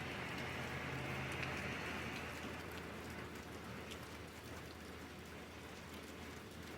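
Rain falling steadily, with scattered drops ticking on a surface. It is a little heavier in the first couple of seconds and then eases slightly.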